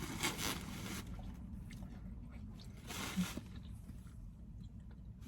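A person chewing a mouthful of sub sandwich, with soft, irregular wet smacks, over a faint steady low rumble of nearby road traffic.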